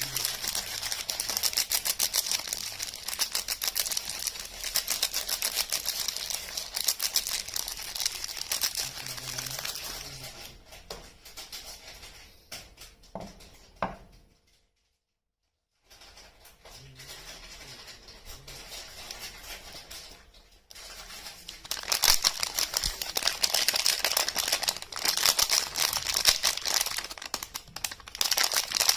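Soap wrappers being crinkled and torn open: dense, fine crackling that dies down to a few single clicks, breaks off into dead silence about halfway through, then returns louder for the last several seconds.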